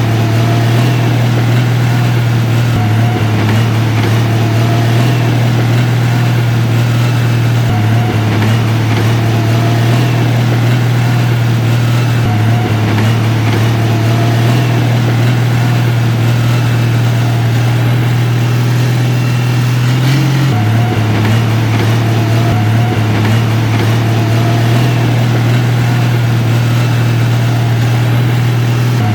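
Heavy diesel engine of construction machinery running steadily with a deep hum, its pitch shifting briefly about two-thirds of the way through.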